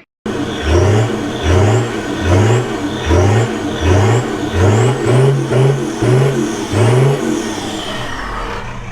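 Old truck's engine, just started after sitting for a few weeks, being revved in about ten quick blips roughly a second apart, each rising in pitch. It settles toward a steady idle near the end.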